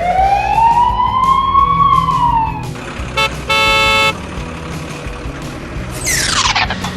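Cartoon vehicle sound effects: a single siren-like wail that rises and falls, a short honk followed by a longer steady horn blast, and near the end a quick falling swoosh, all over a low engine rumble.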